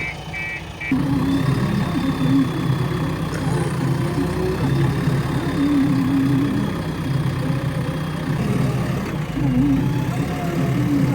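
Reversing alarm beeping about three times a second, stopping about a second in. Then the diesel engine of a JCB 3DX backhoe loader runs loudly, its pitch rising and falling as it works, with a faint high whine above it.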